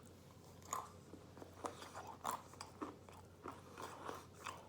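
Someone chewing and crunching roasted peanuts with the mouth close to the microphone: a quiet run of irregular crunches, several a second.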